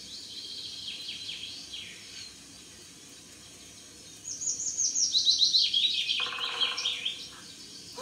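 Songbirds singing: high chirps that fade out over the first two seconds, then about four seconds in a fast run of high notes stepping down in pitch for about three seconds.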